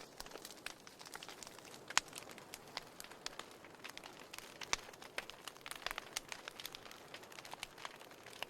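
Burning firewood crackling and popping, with irregular sharp snaps over a soft hiss; the loudest pop comes about two seconds in.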